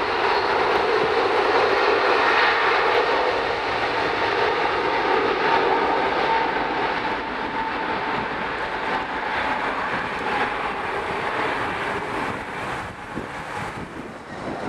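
Jet airliner engines at high thrust, a loud, steady rushing noise with a faint whine in it that gradually fades over the second half.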